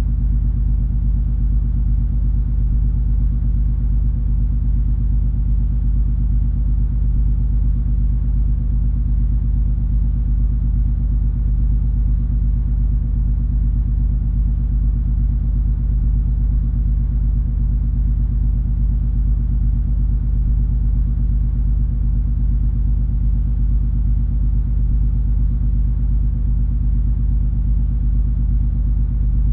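Steady low drone of the cruise ferry MS Color Magic under way: a deep engine rumble with a hum of several steady tones, unchanging throughout.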